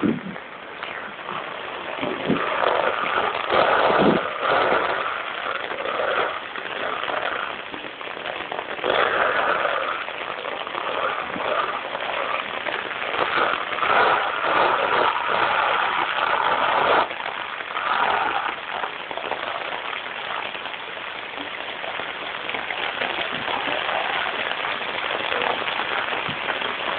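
Heavy typhoon rain lashed down by strong wind, a dense hiss that swells and falls back in gusts every second or two.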